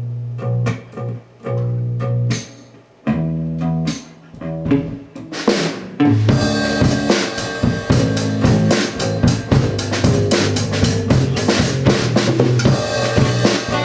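Rock band playing an instrumental intro: chords on guitar and bass in short stop-start hits with gaps for about six seconds, then the drum kit and full band come in together and play on steadily.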